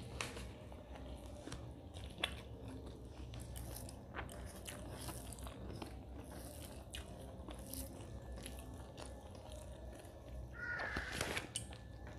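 Close-miked eating by hand: chewing and mouth smacks on mouthfuls of rice and mutton curry, with scattered small clicks, and a louder, higher sound about eleven seconds in.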